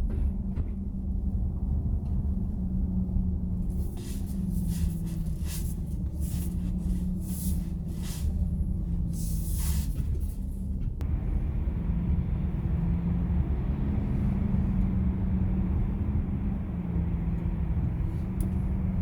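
Steady low road rumble of a Volkswagen ID.4 electric SUV being driven, with no engine note. A run of sharp ticks comes in the middle, and about eleven seconds in the rumble gains a brighter hiss.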